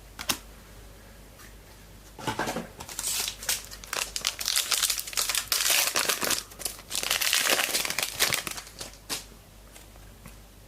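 Foil wrapper of a trading-card pack crinkling and tearing as the pack is opened, in crackly bursts from about two seconds in until near the end.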